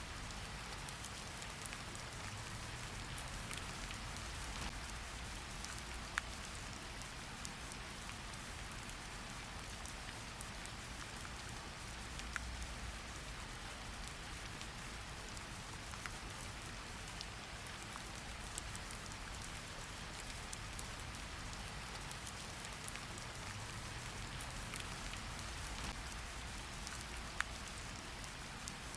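Steady rain falling on a surface: an even hiss with a low rumble underneath and scattered individual drops ticking out, a few louder ones standing out.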